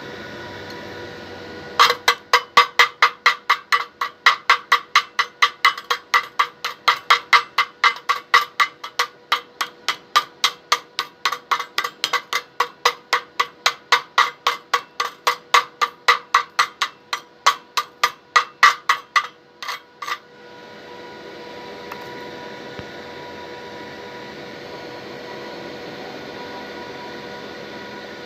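Hammer striking metal in a fast, even series of about three blows a second, each with a short metallic ring. The blows stop about twenty seconds in, leaving a steady hum.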